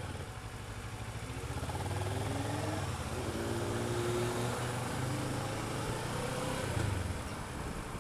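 Motorcycle engine under way, its note rising in pitch several times as it accelerates, over a steady rush of wind noise.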